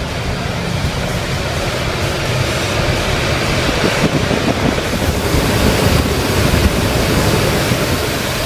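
Yacht intake and exhaust ventilation fan running, a steady rush of air.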